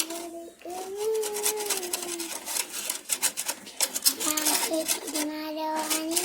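A voice-like melody of long held notes that bend slowly in pitch, with no words, over many sharp clicks and some rubbing or scraping.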